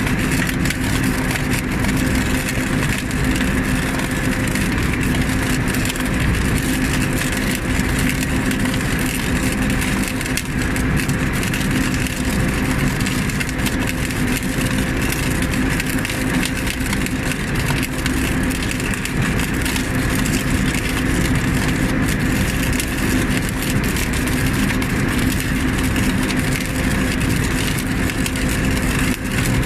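Engine of a rail welding machine running steadily with a constant hum.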